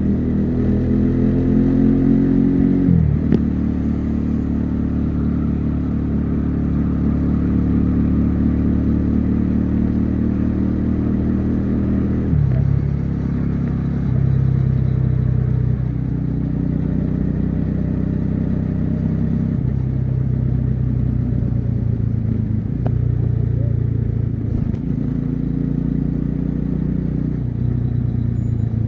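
Bajaj Dominar 400's single-cylinder engine and exhaust under way on the highway. The exhaust note climbs in pitch, drops sharply about three seconds in and again about twelve seconds in, then rises and falls a few times while cruising, over steady wind and road noise.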